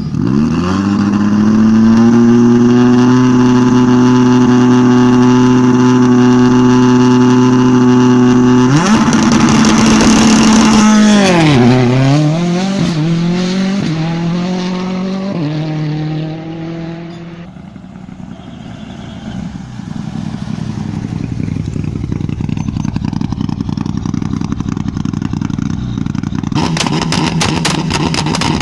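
Rally car engine held flat out at a steady high rev for several seconds, then falling and rising in pitch several times as the car brakes and shifts down, before fading away. A rattling, crackling noise comes in near the end.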